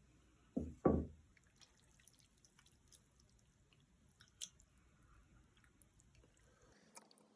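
A person eating curry ramyeon: two short wet mouth sounds, one right after the other, about a second in, followed by faint small clicks of eating.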